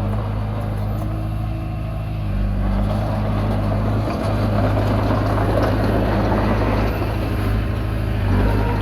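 Komatsu D20P bulldozer's diesel engine running steadily under load, with a rougher working noise joining from about three seconds in.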